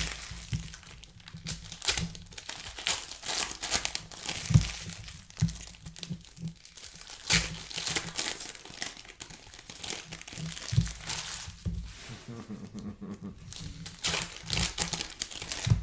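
Plastic wrapping of trading-card boxes and packs crinkling and tearing as it is handled and opened by hand, in irregular crackles with a few sharper clicks.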